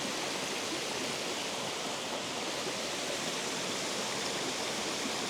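Water pouring steadily over a dam spillway, an even rushing noise with no breaks.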